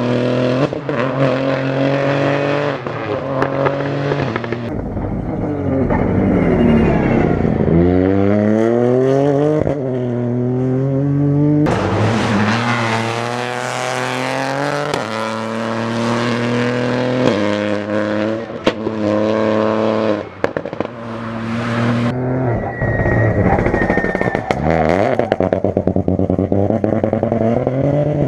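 Rally car engines revving hard as cars accelerate past, the pitch climbing and dropping sharply again and again as they shift up through the gears.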